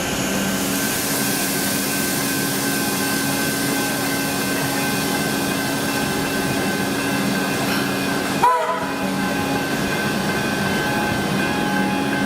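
Suburban train running, a steady rail noise with a few held hum tones. A brief sudden click comes about eight and a half seconds in.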